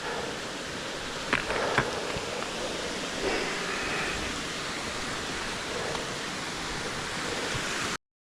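A steady rushing noise that cuts off abruptly near the end.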